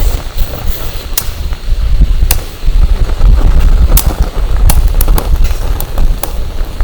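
Firewood burning and crackling, with sharp pops every second or so, over a low rumble of wind buffeting the microphone.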